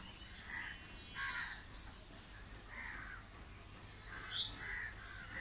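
Faint bird calls in the background: several short, separate calls scattered over a few seconds, over a low steady hum.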